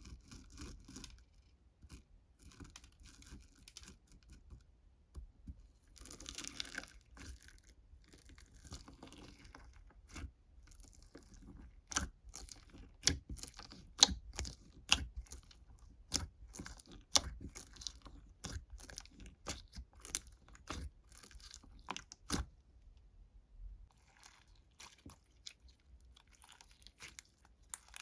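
Close crunching and rustling, with a dense run of sharp crisp clicks through the middle that gives way to softer rustling near the end.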